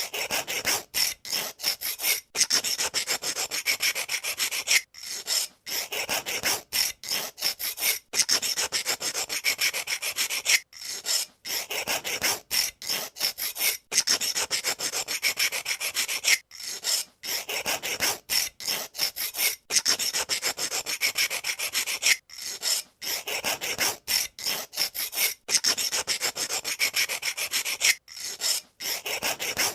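Pencil sharpener shaving a wooden pencil: a dry, rasping scrape that keeps stopping for brief gaps and starting again, many times over.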